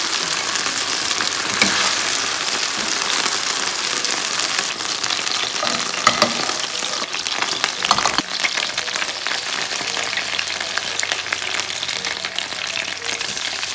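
Marinated chicken pieces sizzling steadily in hot oil in a pan on high heat, with a few sharp knocks and scrapes of a utensil against the pan as the pieces are stirred and lifted out.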